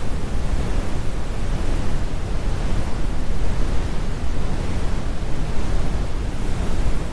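Synthetic brown noise: a steady, deep rumbling hiss with most of its energy in the low end and little at the top.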